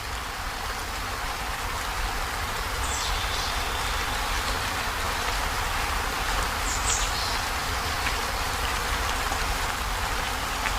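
Heavy rain falling steadily on a corrugated zinc roof: an even hiss with a low rumble beneath. Two faint, short, high chirps come through about 3 and 7 seconds in.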